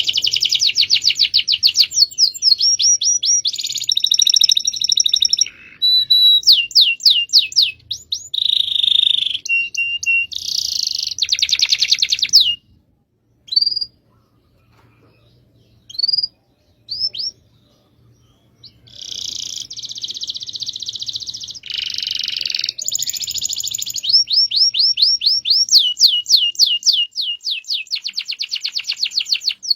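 Domestic canary singing a long rolling song: fast trills of rapidly repeated high notes. About twelve seconds in it drops to a few isolated short chirps for several seconds, then the trilling resumes.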